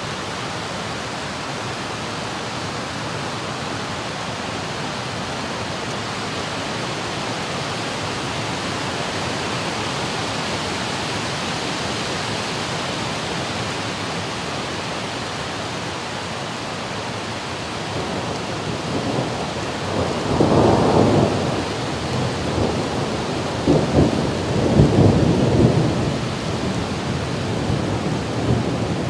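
Steady hiss of heavy rain, then two loud rolls of thunder about two-thirds of the way through, each rumbling for a few seconds.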